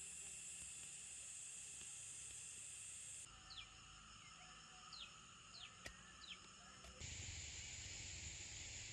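Faint outdoor ambience: a steady high insect drone, broken in the middle by a few short falling bird chirps and a single click, after which the insect drone returns.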